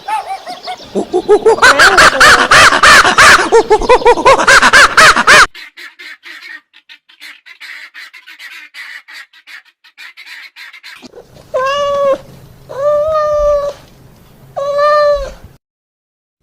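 A loud, dense chorus of many overlapping animal calls, then a quieter stretch of rapid clicking, then three separate drawn-out calls of about a second each, steady in pitch.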